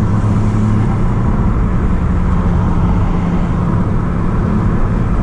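Audi S3 8P's turbocharged 2.0 TFSI four-cylinder, tuned to about 300 hp with an aftermarket downpipe, running at a steady pace while driving, over road noise.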